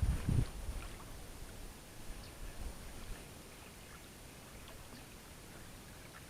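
Strong wind buffeting the microphone in low rumbling gusts that die away about half a second in, leaving a faint steady hiss of wind and open-air background.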